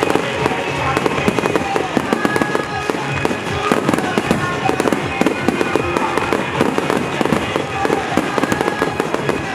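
A dense barrage of aerial firework shells bursting and crackling in rapid, unbroken succession, many pops a second.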